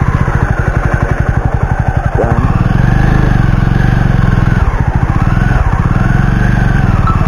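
Jawa 42 motorcycle's single-cylinder engine running as the bike pulls away and rides off, its engine note rising and falling with the throttle.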